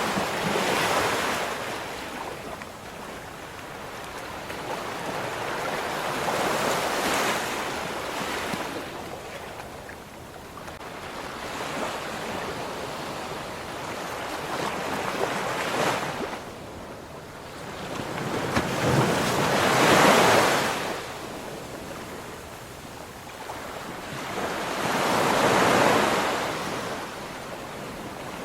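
Ocean waves breaking and washing on a shore, the surf swelling and fading about every six seconds, the loudest wave about two-thirds of the way through.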